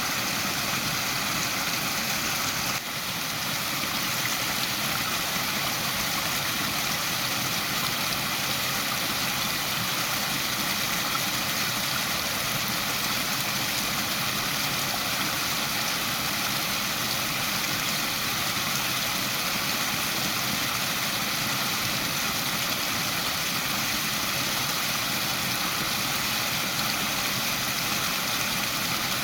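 Waterfall rushing steadily: constant, even splashing of falling water, with a brief slight dip about three seconds in.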